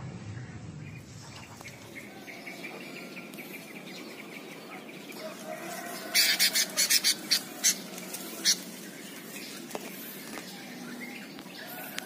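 Birds calling in a tree: faint chirping at first, then about six seconds in a close bird gives a run of about eight loud, sharp chirps over two or three seconds.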